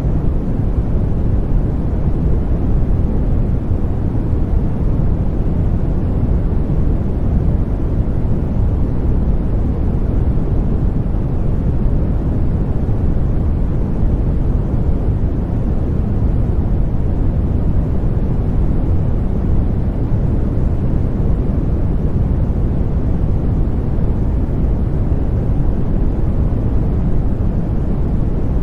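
Continuous sleep-aid white noise, a steady, deep rumbling hiss with most of its weight in the bass and little treble. It holds unchanged throughout.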